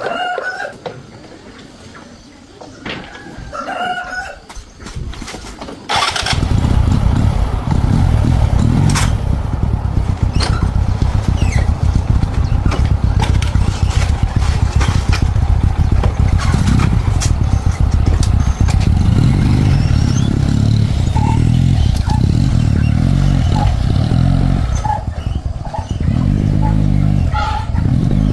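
Honda 110 motorcycle engine starting suddenly about six seconds in, then running steadily.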